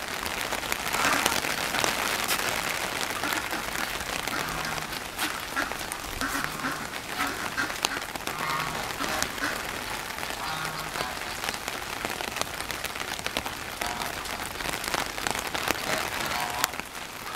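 Steady typhoon rain falling hard on a surface, a dense hiss dotted with sharp drop impacts. A few short low calls come through it, spaced a second or two apart around the middle.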